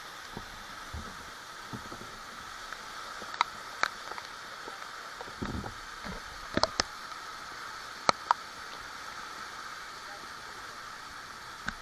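Steady rush of flowing water from a hill stream or waterfall. Six sharp clicks come in pairs: two about three and a half seconds in, two a little after six and a half seconds, and two at about eight seconds.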